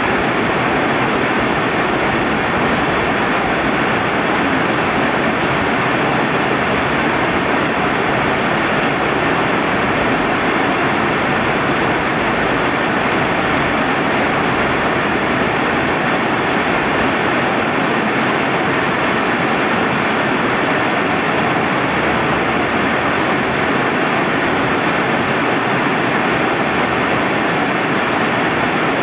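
Rain falling by a flowing river: a steady, even rushing hiss of rain and running water that does not change.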